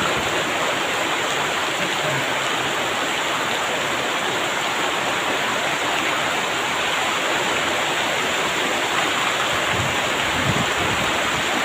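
Heavy rain pouring down in a steady hiss. Near the end, gusts of wind begin rumbling on the microphone.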